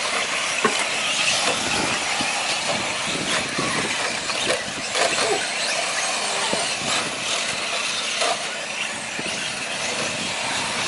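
Radio-control 4WD short course trucks racing on a track: a dense high-pitched drone of motors, drivetrains and tyres with frequent short knocks and clicks scattered through it.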